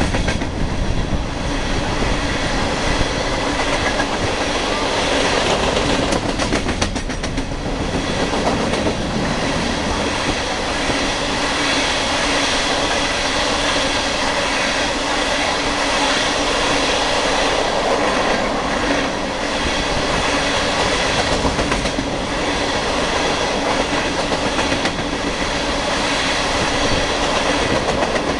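Loaded coal hopper cars of a freight train rolling past, with a steady rumble and rattle of wheels on the rails and the clickety-clack of wheels over the rail joints.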